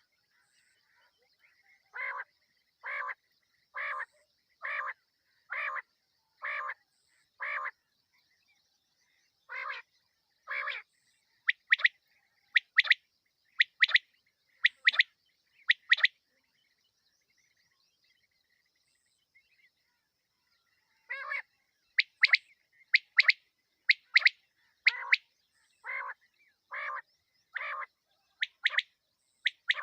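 Female quail calling (the batair's night call): short calls repeated about once a second in runs, with a few seconds' pause between runs. Some calls are sharper and higher-pitched.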